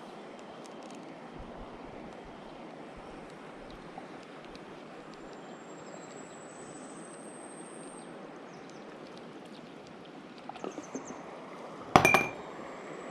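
Valley stream water running steadily. Near the end come a few light clicks, then one loud, sharp knock with a short ring.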